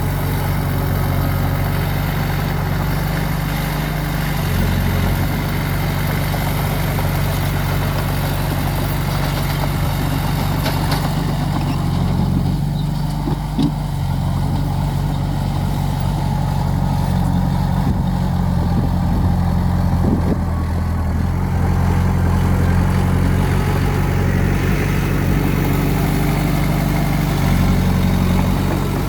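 Diesel engine of heavy earthmoving equipment running steadily, its pitch stepping up and down a few times as the load changes.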